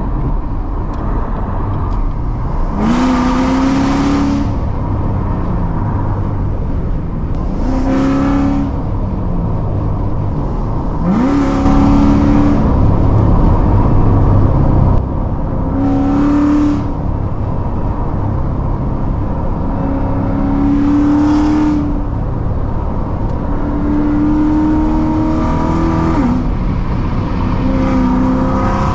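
Straight-piped 2016 Corvette C7 Z06 with long-tube headers and an X-pipe, its supercharged 6.2-litre V8 running steadily under way. About six short bursts of throttle break in, each lasting about a second, every four to five seconds, some with a quick rise in pitch at the start.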